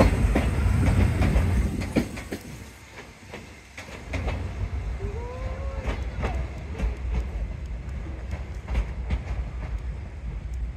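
Sotetsu Moya 700 series electric work train passing close by, its wheels clacking over the rail joints, then fading about two seconds in as it draws away. A low rumble with scattered clicks carries on, and a short rising squeal sounds about five seconds in.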